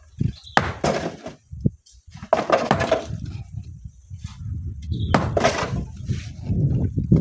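Rocks crashing and clattering in several sharp, heavy impacts as stone is broken and handled, over a low continuous rumble that sets in about two seconds in.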